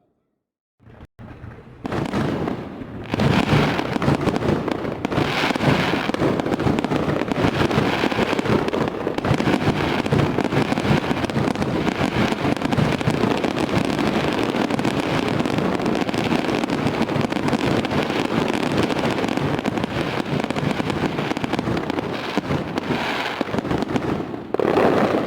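Fireworks display: after about a second of silence, a dense, continuous crackle of many overlapping bursts, with a louder burst near the end.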